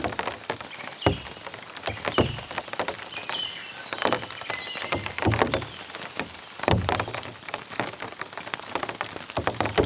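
Heavy rain, with large drops hitting close by at irregular intervals, some landing with a dull thud. Birds chirp faintly a few seconds in.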